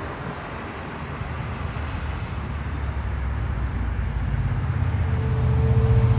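A heavy truck's engine and road noise, a low steady rumble growing steadily louder as the truck approaches, with the engine's low hum coming to the fore near the end.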